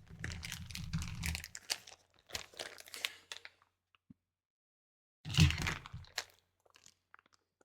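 Close-up crinkling and crunching handling noise on the microphone, a dense run of crackles for about three and a half seconds, then a pause and one more short burst.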